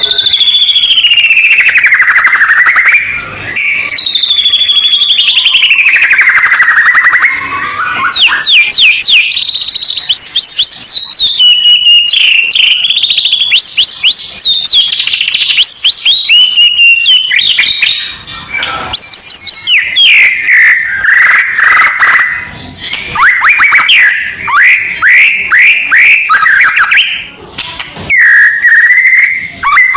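White-rumped shama (murai batu) song played as a bird-training recording: long sliding whistled phrases at first, then fast rattling runs of quickly repeated notes broken by short pauses.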